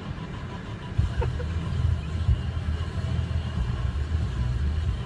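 Car driving: a steady low rumble of engine and road that gets louder about a second in, with a few light knocks.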